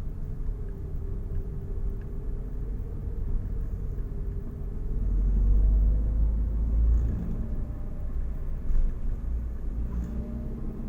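Road vehicle driving: a steady low engine and road rumble with a faint drone that slowly drifts in pitch, growing louder for a couple of seconds about halfway through.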